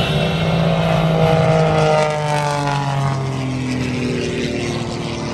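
J85 turbojet engine running at high power as the jet passes at speed, its whine dropping in pitch about two to four seconds in.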